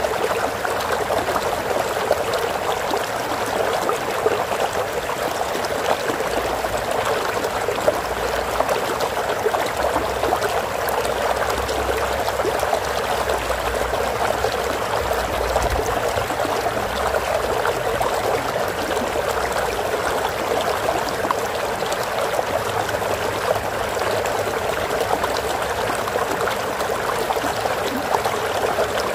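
Flowing stream water, a steady trickling and babbling rush that does not change.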